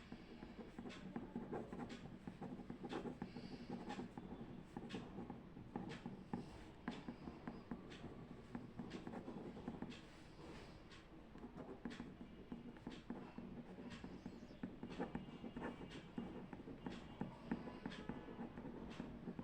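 Faint writing on paper, with frequent short scratches and light taps of the pen over a low, steady room hum.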